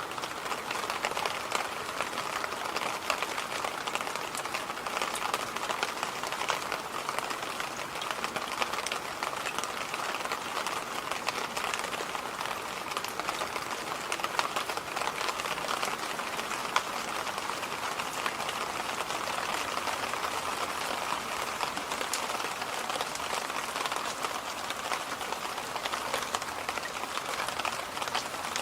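Electric fan running steadily: an even whooshing noise with fine, faint ticking running through it.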